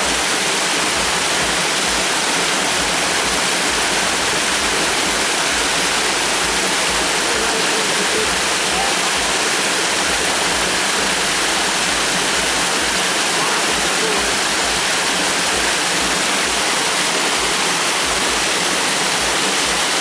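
Waterfall pouring in a loud, steady rush of falling water.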